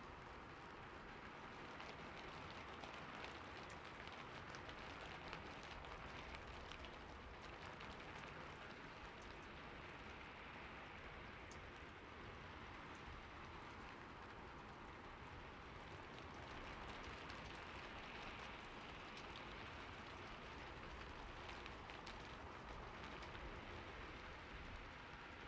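Steady rain falling on a roof, an even hiss with many fine drop ticks.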